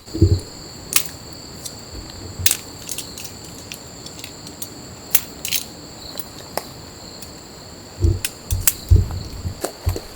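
Steady high-pitched chirring of crickets or similar insects, with scattered sharp clicks and a few dull thumps near the end.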